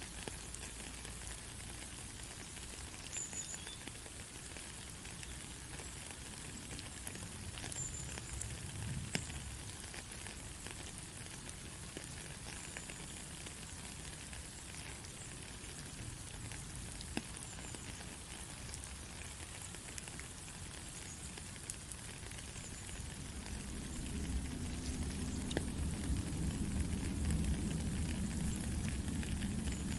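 Steady rain pattering, with scattered drops ticking sharply through the hiss. A deeper low rumble swells in over the last few seconds.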